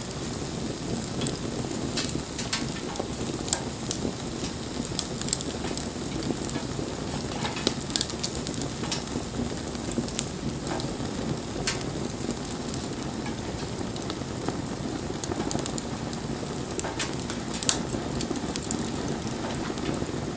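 Wood bonfire burning: a steady low hiss of flames with sharp crackles and pops at irregular moments.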